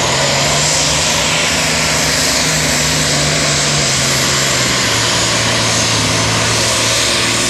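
Super Stock pulling tractor's turbocharged diesel engine running flat out under the load of the sled, very loud and steady. Its engine note drops about halfway through as the engine is pulled down. The announcer puts this down to running out of power in too high a gear.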